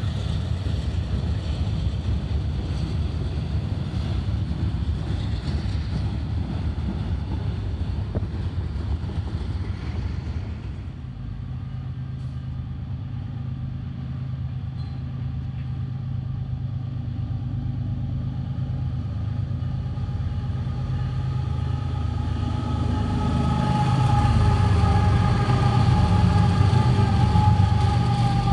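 Freight trains passing: the wheels of loaded covered hopper cars rolling by, then, after a cut, a diesel locomotive approaching and its train of double-stack container cars rumbling past, getting louder near the end with steady high tones over the rumble.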